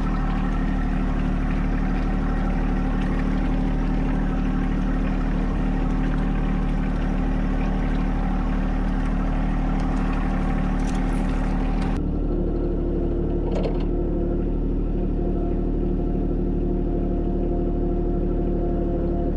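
John Deere 1025R compact tractor's three-cylinder diesel engine running steadily under way. About twelve seconds in the sound changes abruptly, losing much of its hiss while the engine note carries on.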